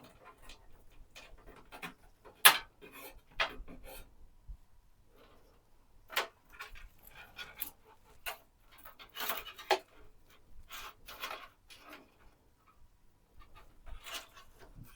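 Irregular clicks, taps and short rustles of hands handling and fitting PC parts, with one sharp click about two and a half seconds in.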